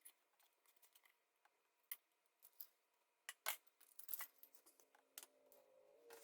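A scatter of light clicks and metallic clinks from small hard objects being handled, the sharpest about halfway through.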